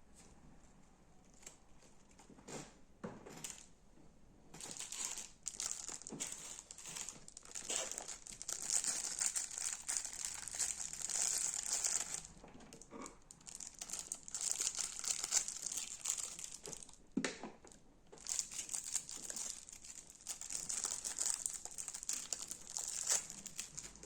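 Slime being squeezed and worked by hand, giving off dense crackling in three long stretches with short pauses and a few single clicks between them.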